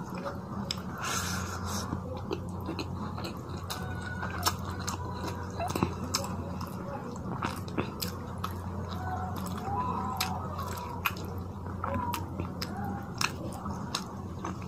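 Close-up chewing of rice and fish curry, with wet mouth sounds and many sharp lip-smacking clicks throughout. Fingers mix rice and curry on the plate. A steady low hum sits underneath.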